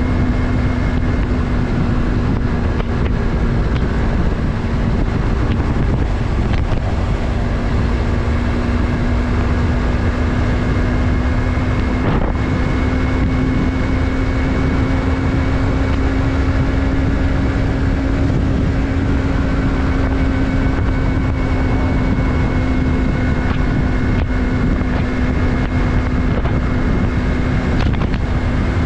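2020 Yamaha MT-03's parallel-twin engine running at a steady cruise, its note holding nearly level with a slight rise about halfway through, under wind noise on the microphone.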